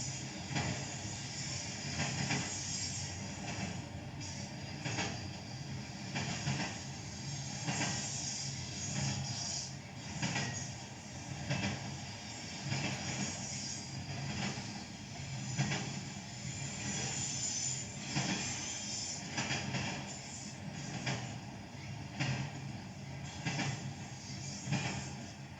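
BNSF freight train rolling past, its wheels clicking over rail joints in a steady rhythm of paired clicks, over a continuous low rumble.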